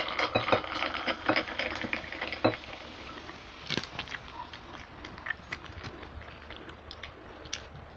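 Close-miked chewing and wet mouth clicks of someone eating, thick for the first couple of seconds and then sparser, with a few clicks and crinkles from the food and its paper wrapping being handled.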